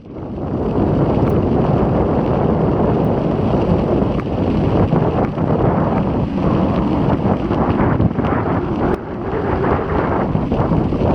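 Strong wind buffeting an action camera's microphone on a moving road bike: a loud, continuous rumble that swells and eases with the gusts.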